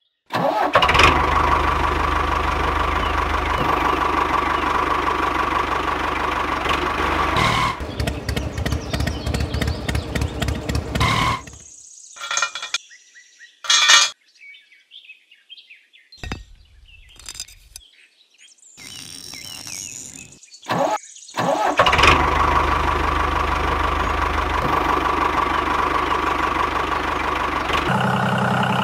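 Small single-cylinder diesel power-tiller engine running steadily, changing to slower, distinct chugs about 8 seconds in and stopping near 11 seconds. A quieter stretch with a few light clicks and knocks follows, then the engine runs steadily again from about 22 seconds.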